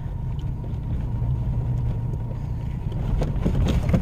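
Steady low road and engine rumble inside a moving truck's cabin, with a few light knocks near the end.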